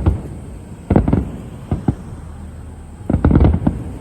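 Fireworks exploding overhead in quick clusters of sharp bangs: a group about a second in, a couple more just before two seconds, and a dense run from about three seconds in.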